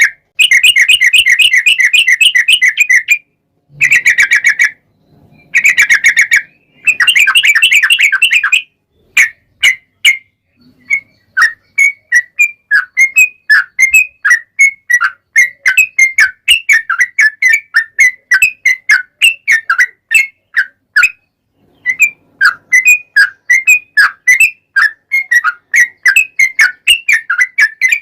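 Yellow-vented bulbul singing: rapid chattering trills in four bursts through the first nine seconds or so. After that comes a long string of separate bubbly chirps, about two or three a second, with a brief pause about three-quarters of the way through.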